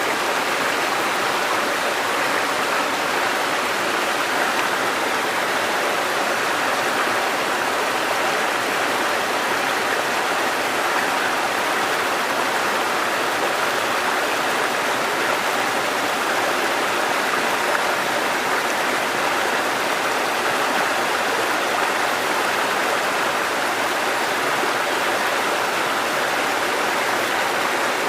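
River water flowing over rocks, a steady rushing that holds at the same level throughout.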